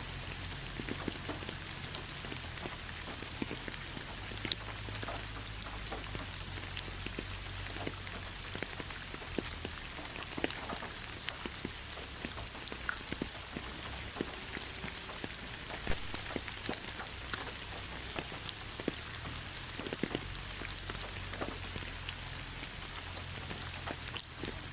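Steady rain pattering on fallen leaves: an even hiss dotted with many separate, irregular drop ticks.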